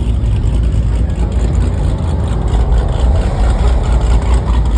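Car engines running at a steady low rumble, with no revving.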